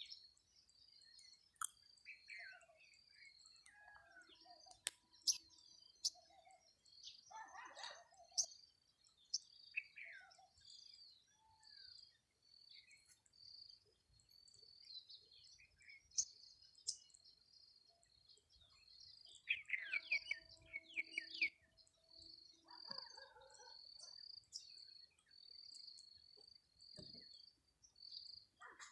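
Several birds calling in the morning after rain. A short, high note repeats about once a second throughout, over other scattered chirps and calls, with a quick run of falling notes about two-thirds of the way in.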